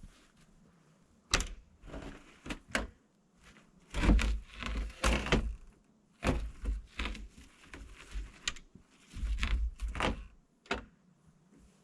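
Irregular clunks and knocks, like a door or hatch being worked, with some longer rough scraping or crunching noise between them; no engine is running.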